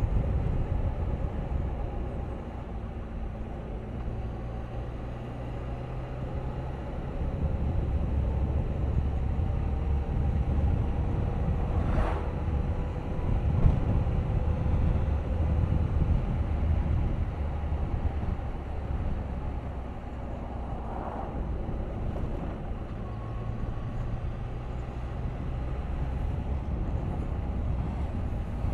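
Suzuki GSX1250FA's inline-four engine running under way, with a heavy low rumble of wind noise over the camera microphone. The engine note rises and falls with the ride, and there is a single sharp click about twelve seconds in.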